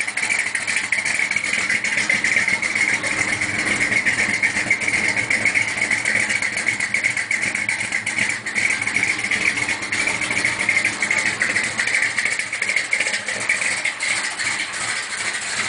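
A 406 cubic-inch small-block Chevy V8 with a Comp 305H cam idles low and steady through a 2.5-inch exhaust with Thrush two-chamber mufflers. The owner says the engine is knocking and plans to pull it, and hopes a crank kit will cure it.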